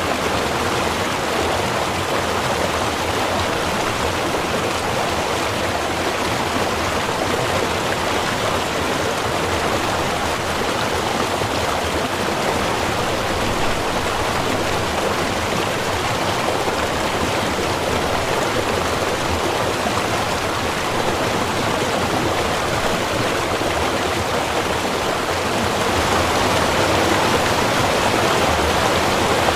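A small river running steadily over rocks, an even rushing of water that grows a little louder near the end.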